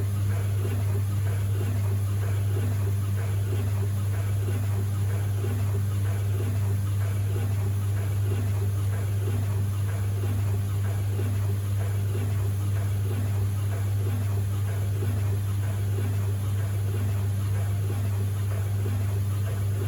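White Knight C38AW compact tumble dryer running empty: a steady motor hum with a faint, regular beat from the turning drum. It sounds a bit ropey, and the owner is unsure whether that is how these dryers are meant to sound.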